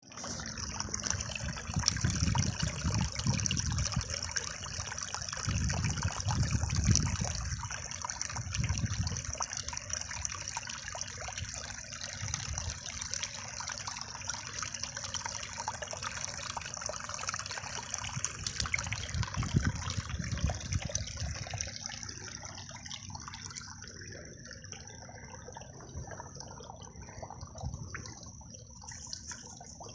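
Creek water running and trickling as a steady rushing hiss, with low rumbles swelling in and out during the first half.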